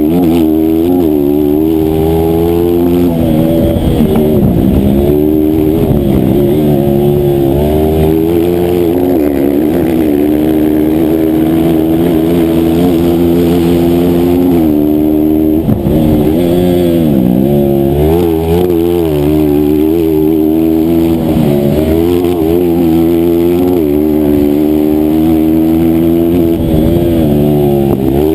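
A single-cylinder 160cc-class racing engine held at high revs. Its pitch climbs repeatedly under acceleration and falls back sharply between climbs, as at gear changes and braking for corners.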